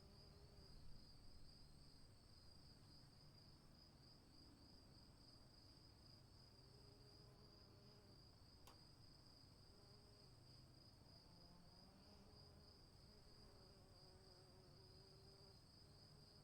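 Faint, continuous high trilling of crickets, a steady pulsing chirr that never stops, with a faint low rumble underneath. A single soft click comes about halfway through.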